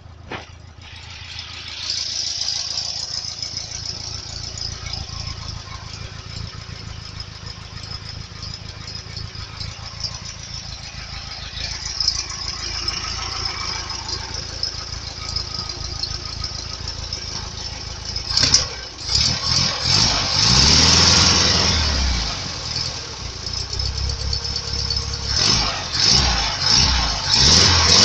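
ZAZ 968M Zaporozhets' air-cooled V4 engine idling steadily with some rattle, then revved up and down repeatedly from about two-thirds of the way in.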